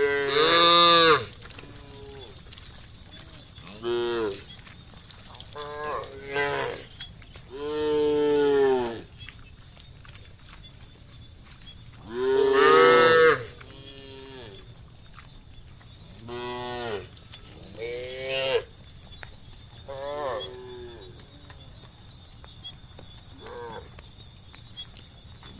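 A herd of cattle mooing, one cow after another, about nine calls in all. The loudest come about a second in and again around thirteen seconds, with one long drawn-out moo near eight seconds and fainter ones between.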